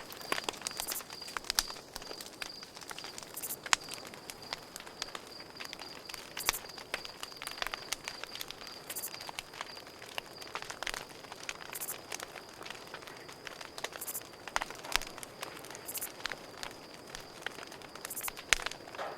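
Campfire crackling, with irregular sharp pops and snaps of burning wood. Crickets chirp in a steady high pulsing trill behind it.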